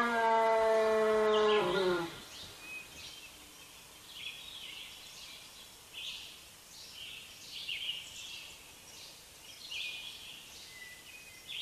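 A buzzing tone slides down in pitch and cuts off about two seconds in. Then birds chirp repeatedly in short calls over a faint outdoor hiss.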